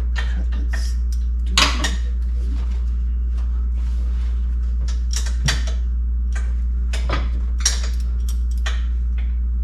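Hand wrench clinking and scraping on the exhaust header bolts, with a scatter of sharp metal clicks and knocks, one louder about a second and a half in. A steady low hum runs underneath.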